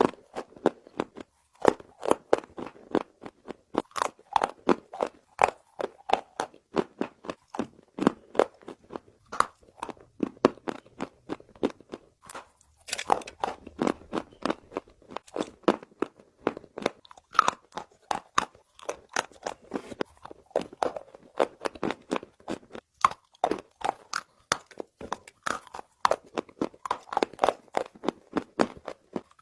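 Close-miked chewing of dry roasted Nakumatt clay: a run of sharp, brittle crunches, several a second, with a denser spell of crunching about halfway through.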